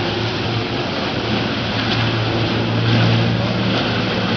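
A boat engine's steady low drone under a constant rush of wind and water, with no change in pitch.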